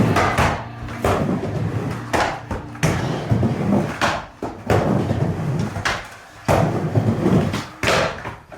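Skateboard riding a mini ramp: a low rumble of the wheels rolling, broken by a string of sharp knocks and slaps as the board and trucks strike the ramp.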